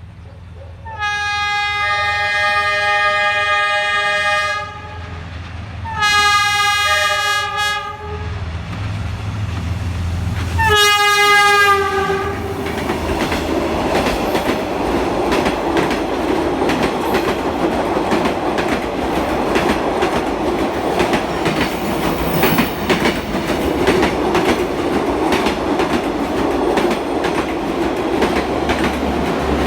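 Diesel freight train's horn sounding three blasts of several tones together: a long one, a shorter one, then a short one. The train then runs past, its wheels clattering steadily over the rail joints.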